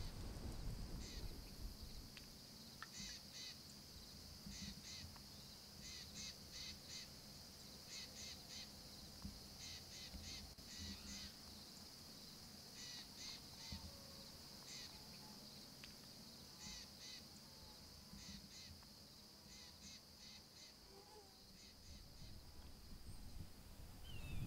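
Quiet outdoor ambience: short, harsh bird calls come in quick clusters of two to four, every second or two, over a steady high-pitched drone.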